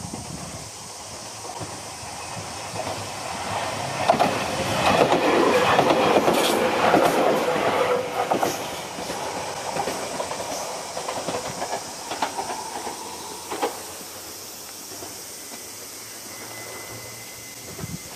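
A train on the Yosan Line passes over the level crossing, its wheels clattering over the rail joints. The sound builds, is loudest for a few seconds near the middle, then fades with a few separate clacks.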